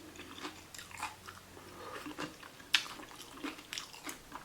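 Close-up biting and chewing of a taco stuffed with raw vegetables, with irregular crisp crunches, the loudest about two and three-quarter seconds in.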